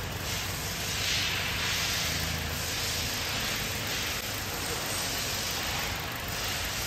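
Toyota Corolla's four-cylinder engine idling with a steady hiss over a low hum, during a cylinder-by-cylinder misfire check while the shaking engine is tested one cylinder at a time.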